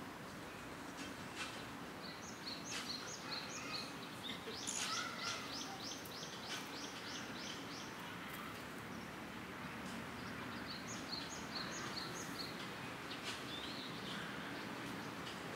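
Small birds chirping over steady outdoor background noise: several series of short high chirps, with a quick run of descending notes about five seconds in and another chirping series around eleven seconds.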